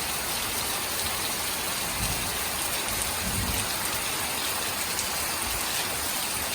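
Rainy-season tropical rain falling steadily, a continuous hiss of drops on surfaces.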